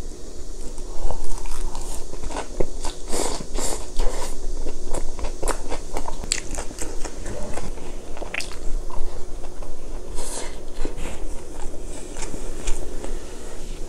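Close-miked chewing of a lettuce wrap with spicy stir-fried pork (jeyuk-bokkeum): an irregular stream of crisp crunches from the fresh leaf lettuce as the mouthful is bitten and chewed.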